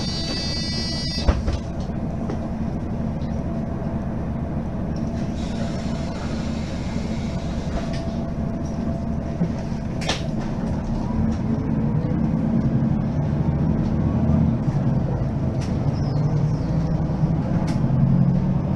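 Mercedes-Benz Citaro Facelift city bus running, its engine drone growing louder from about halfway through. A high tone stops just after the start, and a sharp click comes just over a second in.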